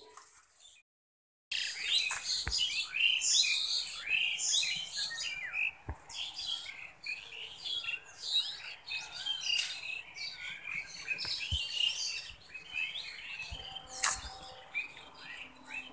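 A dense chorus of many birds chirping at once, with short high calls overlapping without a break. It starts abruptly after a brief silent gap about a second and a half in.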